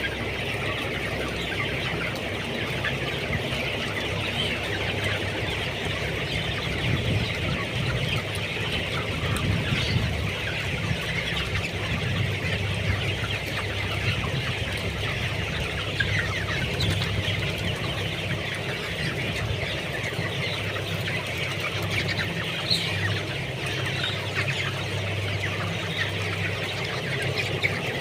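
A large flock of 20-day-old broiler chickens, many birds peeping and clucking at once in a continuous chatter, with a steady low hum underneath.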